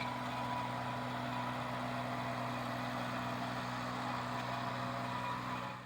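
A steady low hum of a few held tones over faint background noise, unchanging, fading out at the very end.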